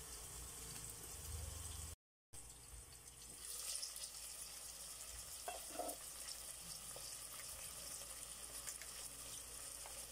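Faint sizzling of garlic, white onions and long green chilies frying in oil in an electric rice cooker pot. It grows a little louder and brighter from about three and a half seconds in, with the lid off.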